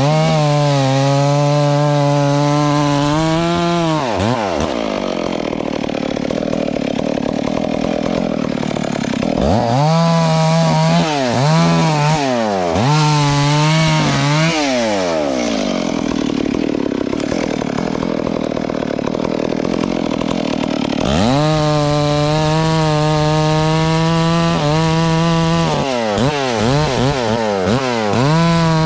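Two-stroke chainsaw revving to full throttle and dropping back several times, with rougher, lower-pitched stretches in between, likely while the chain is in the wood.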